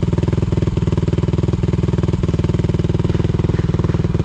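Off-road vehicle engine running at a steady speed, with an even, rapid pulse and no revving.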